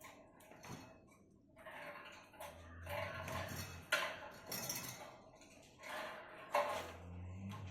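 Pet lovebird playing with a small toy ball, making a series of light knocks and rattles with a few sharper clinks.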